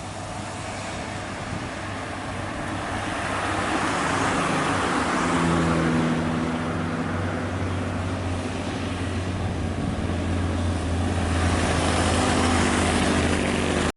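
A road vehicle driving, with a steady engine hum under rushing road noise. It grows louder over the first few seconds and then holds.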